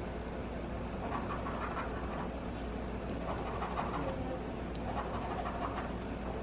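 Scratch-off lottery ticket being scratched, the coating scraped away in a series of short rasping strokes.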